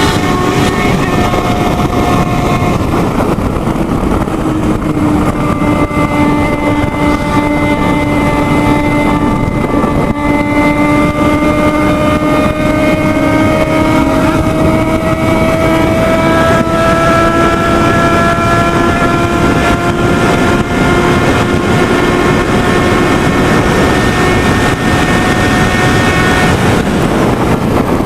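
Motorcycle engine running at high speed under heavy wind rush on the microphone. Its pitch climbs slowly and steadily for most of the stretch as it pulls hard in a high gear, with a change in engine note about three seconds in and again near the end.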